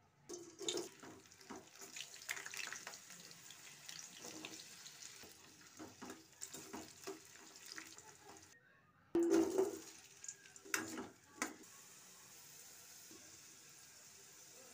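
Chopped capsicum and onion sizzling in hot oil in a stainless steel kadai, with a steel spoon scraping and clinking against the pan as they are stirred. After a short break about nine seconds in, potato cubes fry the same way, the loudest spoon clatter comes just after the break, and it settles into a steady sizzle.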